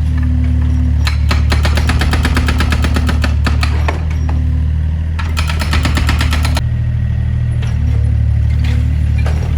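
Excavator diesel engine running steadily, with two stretches of rapid, evenly spaced hammering or clattering, one about a second in and one past the middle.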